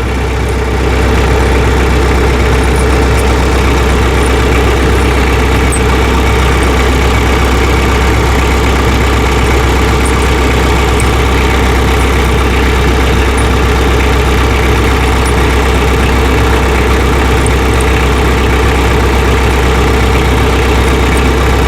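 Tractor engine running steadily at idle, its low hum stepping up about a second in and then holding even.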